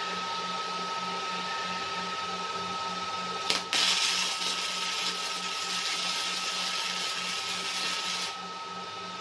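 A CO2 welding arc on a robotic welding cell strikes with a sharp crack about three and a half seconds in, then burns with a steady hissing crackle for about five seconds and cuts off suddenly as the weld ends. Under it runs a steady machine hum with a faint high whine and a regular low pulse.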